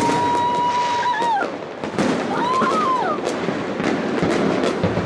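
Fireworks going off: many sharp bangs and crackles in quick succession. Over them a high held tone lasts about a second and a half before wavering and falling away, and a shorter high tone rises and falls about halfway through.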